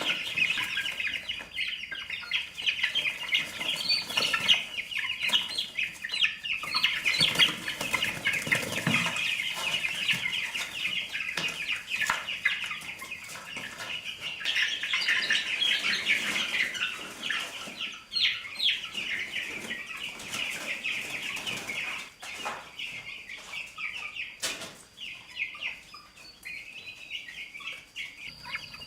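A flock of chickens clucking and chirping, many birds calling at once, thinning out in the last few seconds.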